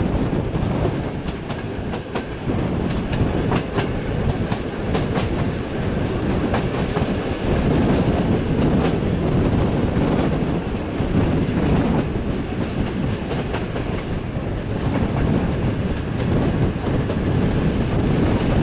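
Steam-hauled passenger train running at speed, heard from an open carriage window: a steady loud rumble of the wheels, with a run of sharp clatters in the first few seconds as the wheels cross rail joints and points.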